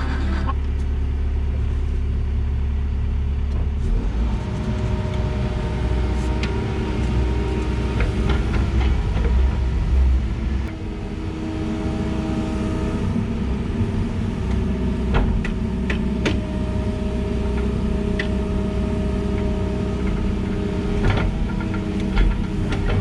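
Excavator engine running steadily under load while digging a trench, with a few sharp clanks along the way.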